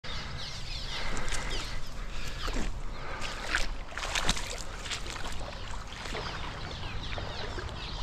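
Birds chirping and calling in quick, short, downward-sliding notes over a low steady background, with two louder sharp sounds near the middle.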